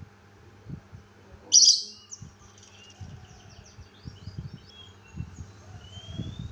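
Pet songbird calling: one loud sharp call about a second and a half in, then a run of short chirps and a rising whistle near the end, over soft low thumps and rustles.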